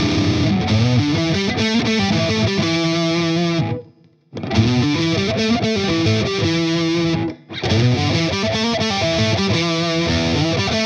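Electric guitar, a Stratocaster on its neck pickup, played through a Boss IR-2 amp and cabinet simulator on its high-gain Mesa Boogie Rectifier model: a heavily distorted riff. It stops briefly about four seconds in and again for a moment at about seven seconds.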